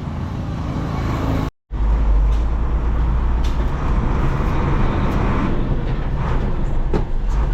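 Truck engine running with road rumble while driving. The sound drops out about one and a half seconds in, then comes back as a heavier, deeper rumble.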